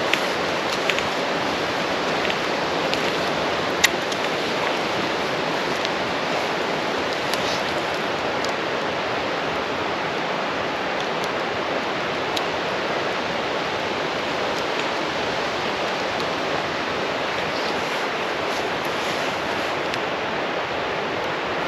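A steady rushing hiss with a few faint crackles from a campfire, and one sharper pop about four seconds in.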